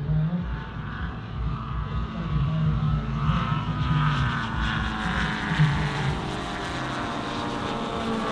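Engine and propeller of a large radio-controlled scale WW2 fighter in flight, a steady droning buzz that swells in the middle as the model passes.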